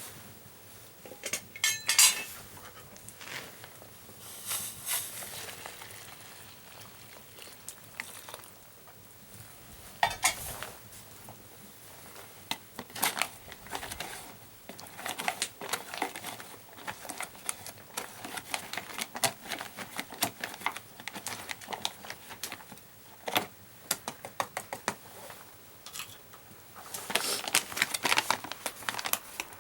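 Metal cookware and a utensil clinking, knocking and scraping in scattered bursts while a camp meal is prepared, with a louder clatter near the end.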